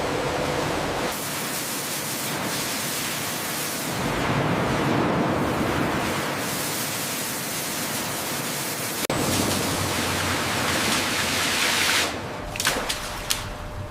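A steady rushing hiss, like spraying water or machinery noise, that changes character abruptly several times, with a few short sharp sounds near the end.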